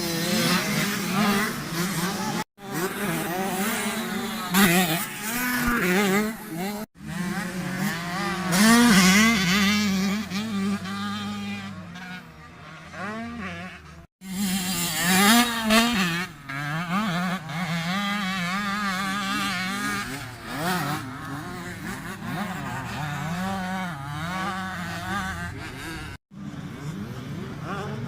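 Yamaha YZ65 two-stroke motocross bike engine being ridden, revving up and down with its pitch rising and falling as the throttle opens and closes. The sound cuts off abruptly several times.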